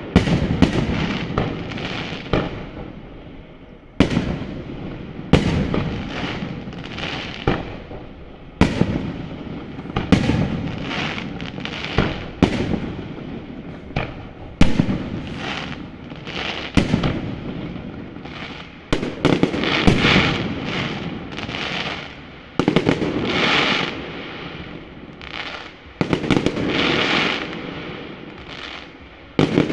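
Fireworks display: aerial shells bursting with sharp bangs every second or two, each trailing off in a rolling echo. Denser clusters of crackling bursts come in the second half.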